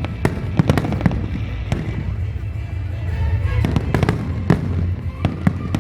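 Fireworks going off in a rapid, irregular series of sharp bangs and cracks, thickest in the first second and again from about four seconds in.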